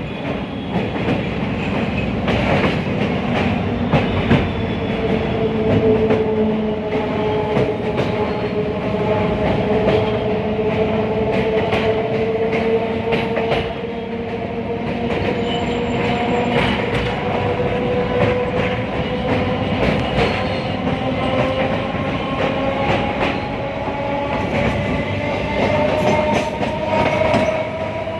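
Passenger train running on the rails, heard from on board: a steady rumble with repeated clicks as the wheels cross rail joints, and a whine that rises slowly in pitch as the train gathers speed.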